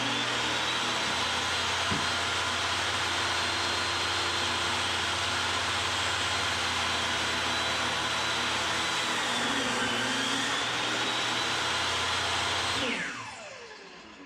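Electric power tool motor with a high whine starting abruptly and running steadily, sagging briefly in pitch about ten seconds in as if under load, then winding down with falling pitch near the end.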